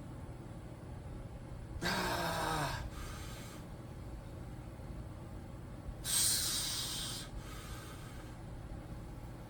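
A man breathing hard through a set on an adductor machine: about two seconds in a short voiced breath out that falls in pitch, and about six seconds in a sharp hissing exhale through the teeth lasting about a second, over a steady low hum.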